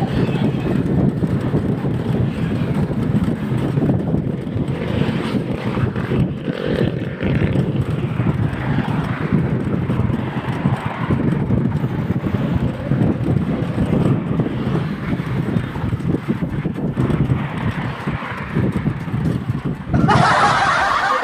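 Wind buffeting the microphone while riding along a road, a fluctuating rumble with road traffic under it, and a sudden brighter rush near the end.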